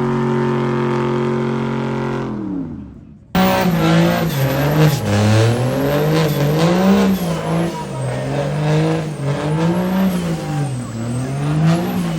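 A truck engine held at steady high revs, then winding down. After an abrupt cut, an engine is revved up and down over and over, about once a second.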